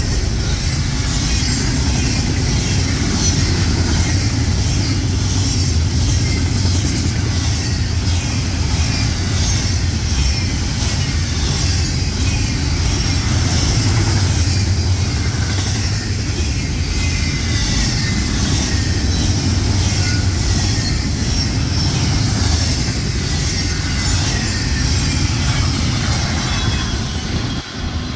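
Short intermodal freight train rolling past close by: a steady low rumble of locomotive and cars with rapid clicking of wheels over the rails and some faint high wheel squeal. The sound drops away near the end as the train clears.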